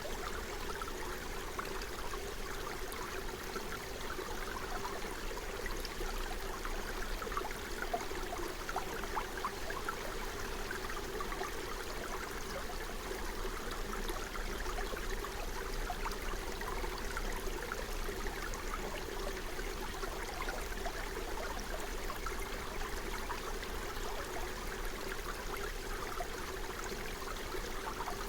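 Forest stream running steadily over stones, a continuous babbling and gurgling with no pauses.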